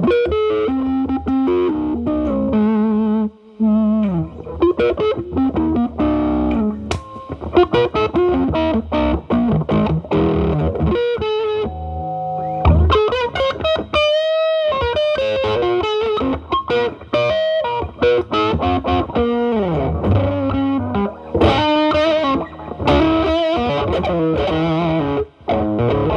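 Electric guitar, a Gibson SG's humbucker through an MXR Distortion+ pedal into a Marshall Valvestate amp's drive channel, set back to a cleaned-up overdrive. It plays improvised single-note blues lead lines with string bends, and a long note held with wide vibrato about fourteen seconds in.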